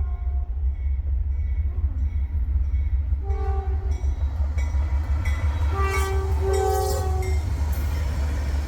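An approaching freight train's diesel locomotive sounds its horn: a short blast about three seconds in, then a longer blast around six to seven seconds, over a steady low rumble.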